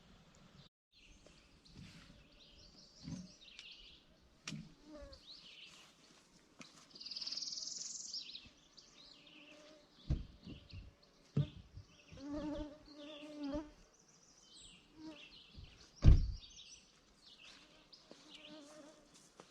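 Mosquitoes buzzing close by, over faint bird chirps. There are a few short dull thumps, the loudest about 16 seconds in.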